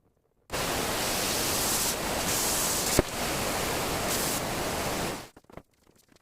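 A power woodworking tool running for about five seconds: a steady rushing noise that starts and stops abruptly, with one sharp click about three seconds in.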